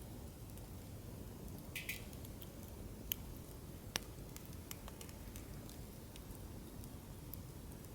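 Wood campfire crackling on a fire stand: a steady low rumble of flames with scattered faint ticks and pops, a short crackle just before two seconds in and two sharp pops about three and four seconds in.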